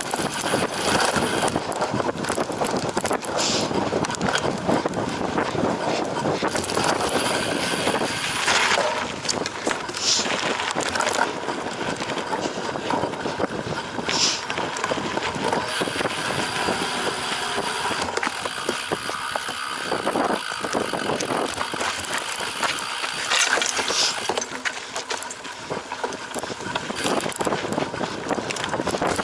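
Cyclocross bicycle being ridden over rough ground: steady rattling and tyre noise with scattered clicks and a few brief higher-pitched rattles.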